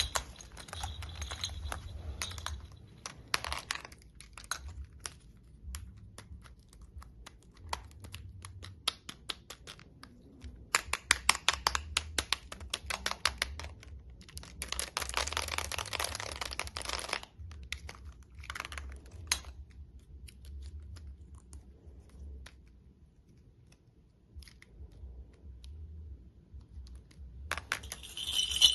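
Toys being clicked and tapped by hand, sounding like a string of sharp clicks that come in runs. There is a fast run of clicks a little before the middle and a dense, rapid run just after it, then only scattered faint clicks.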